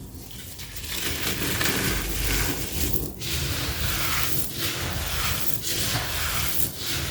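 Sand-cement chunks crumbling with a gritty crunch that goes on almost without a break, easing off briefly about once a second.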